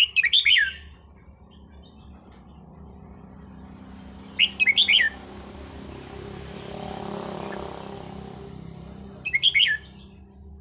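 Red-whiskered bulbul singing three short phrases of quick, looping whistled notes, about four and a half seconds apart. Between the second and third phrase a low hum swells and fades.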